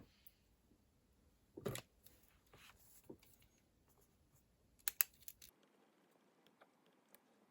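Small desk handling sounds of stationery: a soft thump about two seconds in, a few light ticks, then a quick cluster of sharp clicks near the end of the busy part, with quiet room tone after.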